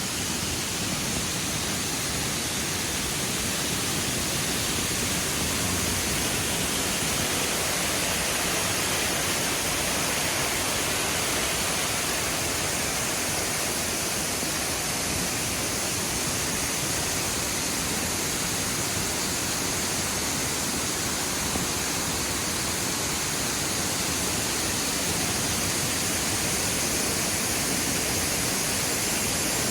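Waterfall pouring steadily: an even, dense rushing hiss that holds the same level throughout.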